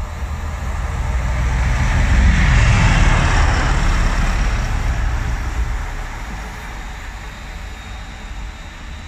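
Electric multiple-unit passenger train passing along the line. Its rumble and wheel noise on the rails swell to a peak about three seconds in, then fade away.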